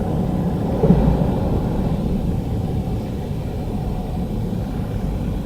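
Strong wind buffeting the microphone, a low, gusty rumble with a louder gust about a second in.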